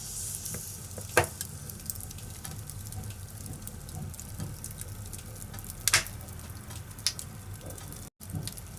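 Wood fire crackling in a fireplace: a low steady rumble of the flames with scattered sharp pops, the loudest a double pop about six seconds in. The sound cuts out for an instant near the end.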